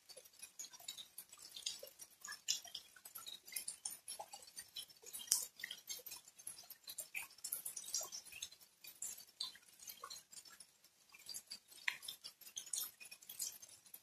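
Rain falling: many irregular, close drop impacts heard as scattered ticks and patters rather than a steady hiss.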